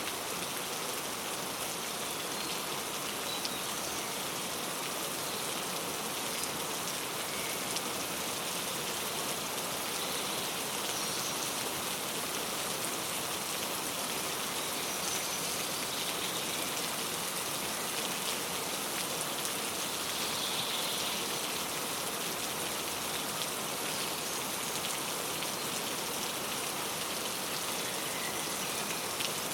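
Steady rain falling, with a few faint, brief bird chirps scattered through it.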